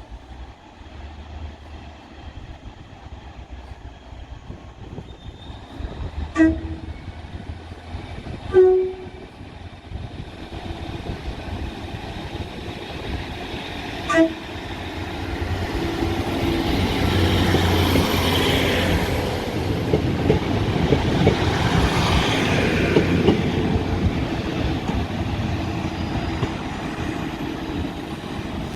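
Diesel multiple unit train sounding three short horn blasts, the first two about two seconds apart and the third some six seconds later, then running past with a rising then fading rumble of engine and wheels.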